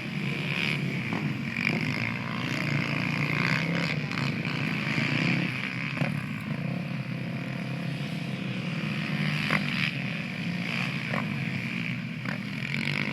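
Pit bike engines running and revving during a race, with several engine notes overlapping and their pitch rising and falling as the throttles open and close.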